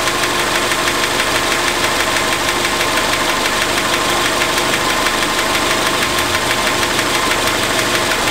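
1991 Acura Integra's four-cylinder engine idling steadily, hood open, running so the AC system can be charged.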